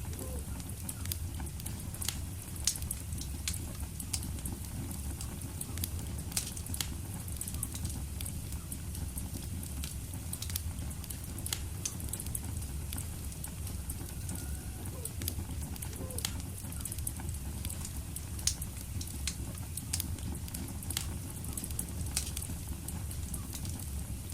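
Wood fire burning in a fireplace, with a steady low rumble of flame and irregular sharp crackles and pops from the burning logs.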